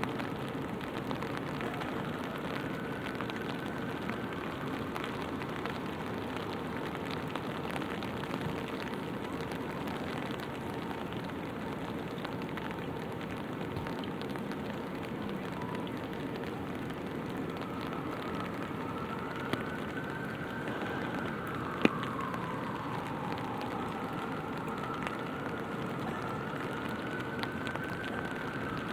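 Light rain pattering steadily on an open umbrella, with a single sharp tick about two-thirds of the way through. Late on, a faint tone rises and falls slowly above the rain.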